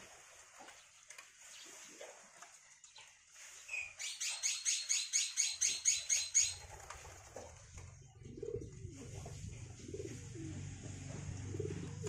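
A bird gives a rapid run of about a dozen sharp, high calls, about five a second, for some two and a half seconds in the middle. A low steady hum follows to the end.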